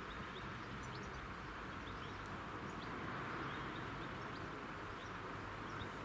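Faint outdoor ambience: a steady hiss with scattered short, high chirps throughout.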